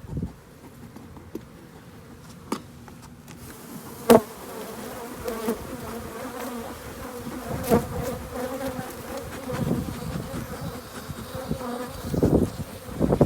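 Many honeybees buzzing around an opened hive, the buzz growing louder about a third of the way in. A couple of sharp knocks stand out, the loudest about four seconds in.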